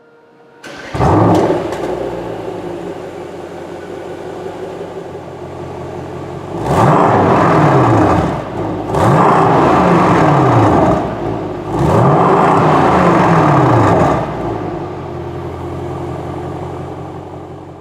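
2018 Mercedes-AMG S 63's twin-turbo V8 starting up with a loud flare about a second in, then settling to idle. It is revved three times, each rev held for a couple of seconds before the pitch falls back, and then it returns to idle.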